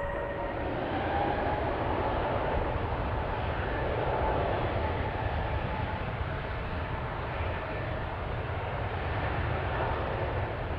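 Jet aircraft engines running: a steady rumble and rush with a faint whine, swelling slightly around four seconds in.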